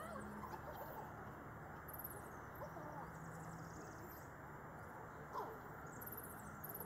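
Wild birds singing: short, high, rapid chirping trills several times over a faint, steady outdoor background.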